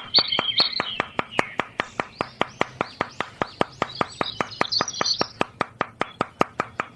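Steady, rapid mechanical clicking, about six clicks a second, with birds chirping over it.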